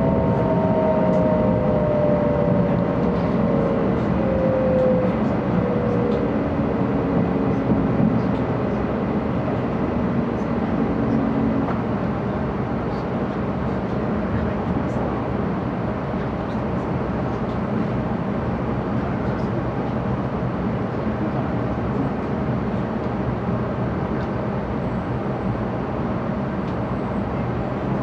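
Running noise inside a 700 series Shinkansen car slowing for a station stop: a steady rumble under a whine that falls in pitch over the first dozen seconds, then the rumble goes on alone, slightly quieter.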